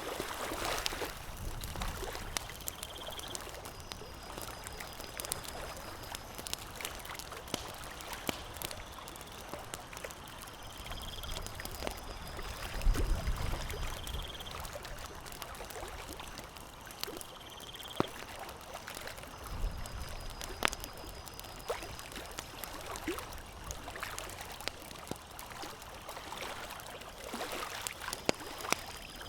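Campfire crackling: many sharp, scattered pops over a steady hiss. A faint high-pitched trill repeats every few seconds, and a low rumble comes twice, about halfway through and again a few seconds later.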